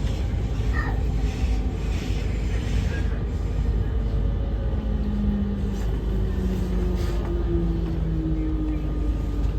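Train at a station: a steady low rumble, with a whine that slowly falls in pitch from about halfway through.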